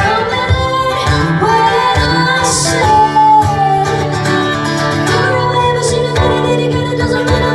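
Live band music: a woman singing long held, gliding notes over strummed acoustic guitar, bass and drums, with a cymbal crash about two and a half seconds in.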